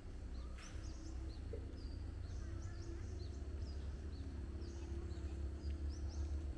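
Birds chirping: many short, quick high notes scattered throughout, over a steady low rumble.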